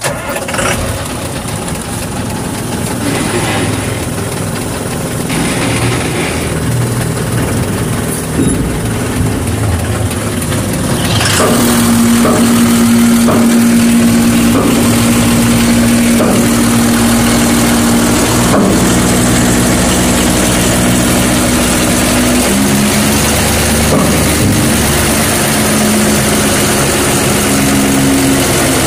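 Six-cylinder diesel tipper truck engine running, then raised to held revs about eleven seconds in, with its pitch stepping up and down a few times as the accelerator is raced to drive the PTO hydraulic pump that lifts the tipper body.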